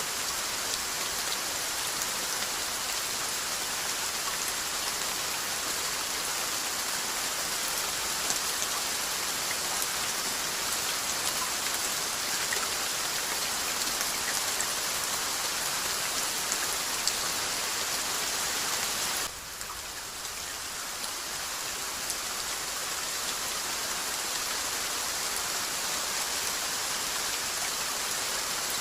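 Steady rainfall, an even hiss with scattered drop ticks. About two-thirds of the way through, the rain suddenly drops quieter, then builds back up over a few seconds.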